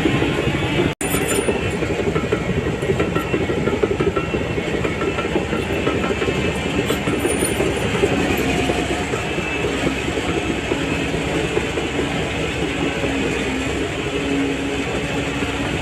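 Shantui DH17C3 crawler bulldozer working, its diesel engine running steadily under load while the steel tracks clank and clatter as it pushes soil.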